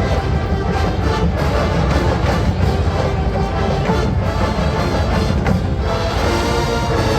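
Marching band playing: brass and woodwinds sounding sustained chords over a steady drumline.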